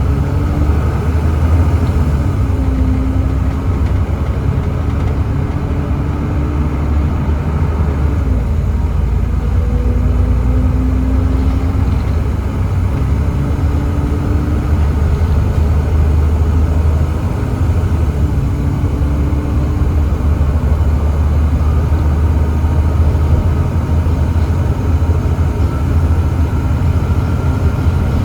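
Volvo B7TL double-decker bus with a Volvo D7C 7.3-litre diesel engine and ZF Ecomat gearbox, running steadily with a deep rumble and a whine that comes and goes several times.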